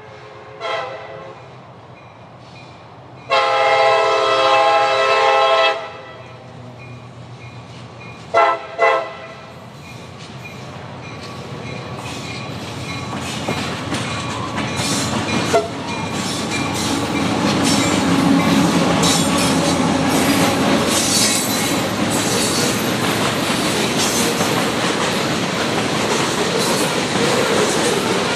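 CSX freight train led by an EMD SD70MAC with a GE CW40-8 behind it: the locomotive horn sounds a short blast, a long blast and two short blasts, then the train grows louder as it approaches and the locomotives and freight cars roll past with wheels clattering on the rails.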